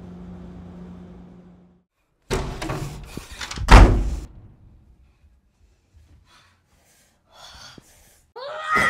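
A low steady hum fades out. About two seconds in comes a burst of rustling movement and a heavy thump, the loudest sound. Near the end a woman gives a short gasp.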